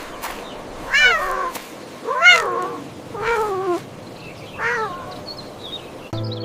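A cat meowing four times, each meow rising and then falling in pitch.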